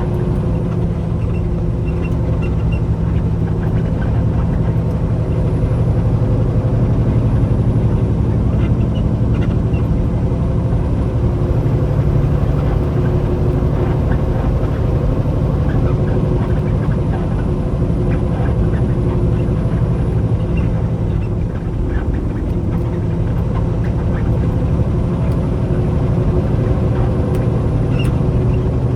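Semi-truck's diesel engine running with a steady drone, heard from inside the cab, with a few light clicks over it.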